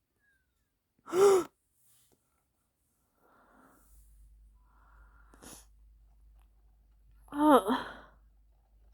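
A woman's short wordless vocal reactions: one brief sound about a second in, and a longer one with a wavering pitch near the end, with faint low sounds between.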